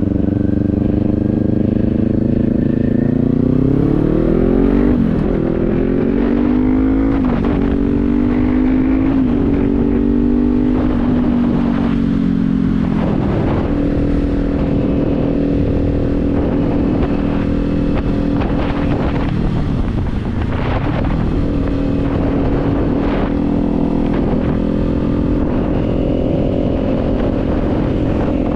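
Kawasaki Z400's 399 cc parallel-twin engine riding under way: revs climb over the first few seconds with quick drops at gear changes about five and seven seconds in, then it settles into a steady cruise with small rises and falls in engine speed.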